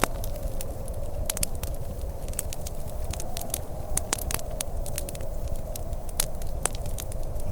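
Wood fire crackling and popping in a fireplace, many sharp irregular pops over a steady low rumble of wind.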